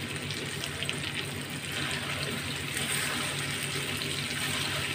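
Green mango pieces frying in hot mustard oil in a pan: a steady sizzle with small crackles, a little louder from about halfway as a spatula stirs them.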